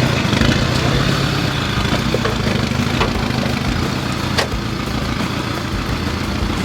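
Off-road 4x4 engine running steadily at low revs, with a couple of sharp clicks midway.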